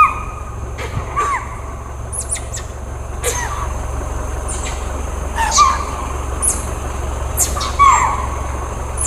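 Repeated short, sharp bird calls, one every second or so, each arching downward in pitch with a quick high sweep, over a steady low hum.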